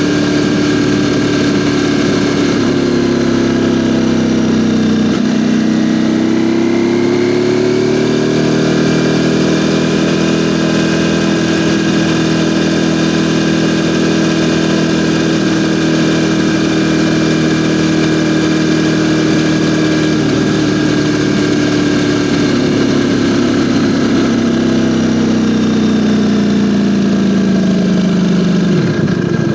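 Ducati Panigale V4 motorcycle's V4 engine running loud and steady. Its pitch dips and climbs back a few seconds in, holds level for a long stretch, then slowly sinks and drops sharply at the end.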